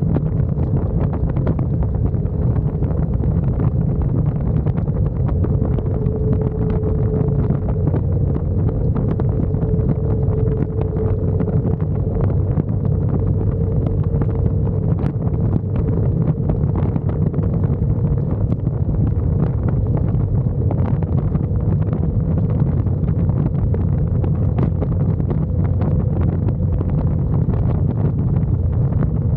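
Wind rushing steadily over the microphone on a moving motorcycle, with a faint steady hum from the bike underneath.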